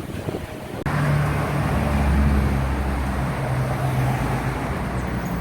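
Street traffic noise with a motor vehicle's engine running close by, starting abruptly about a second in after a moment of gusty wind-like noise.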